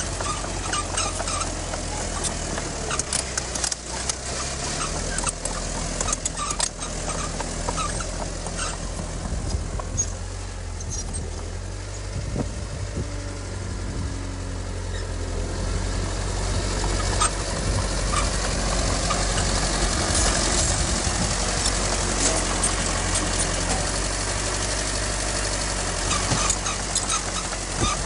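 Diesel engine of heavy earthmoving machinery running steadily, with scattered clanks and knocks. It grows louder and harsher from about halfway through.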